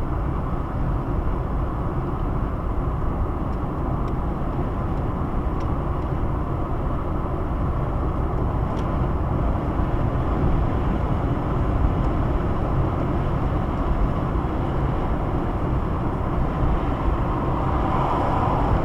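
Steady road and engine noise inside a moving car's cabin, a constant low rumble with no change in speed.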